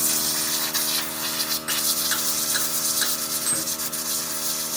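A machine running steadily, with a constant hum and a rasping hiss over it.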